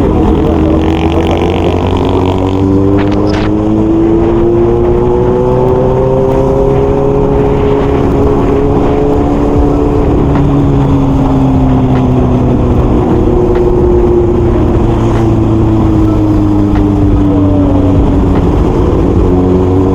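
Kawasaki Z800's inline-four engine and exhaust under way, recorded on the rider's external mic. Engine speed climbs gently over the first several seconds, eases back after about ten seconds, and then holds at a steady cruise.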